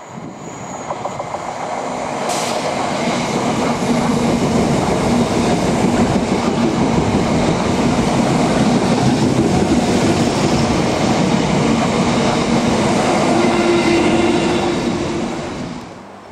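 Royal Mail Class 325 electric multiple unit passing close by on a curve, its wheels rumbling and clacking over the track. The sound builds over the first few seconds, holds, and fades away near the end.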